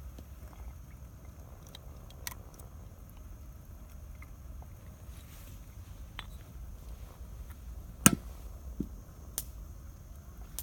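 Wood fire crackling: scattered sharp pops and snaps over a low steady rumble, the loudest pop about eight seconds in.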